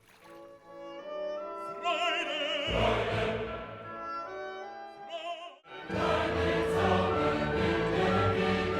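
Classical music: an operatic voice sings with strong vibrato over orchestra, then choir and full orchestra come in together, louder, about six seconds in.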